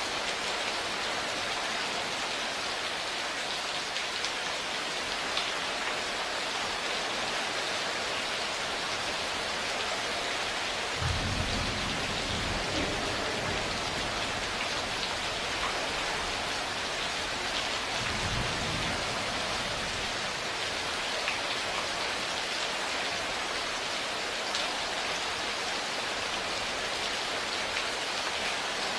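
Steady rain with two low rumbles of thunder: a longer one about eleven seconds in and a shorter one about seven seconds later.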